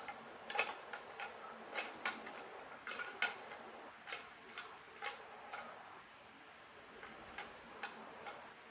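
Faint, sharp ratchet clicks from a hand-operated hoist used to pull out a fallen tree, coming irregularly about two a second with a short pause near the end.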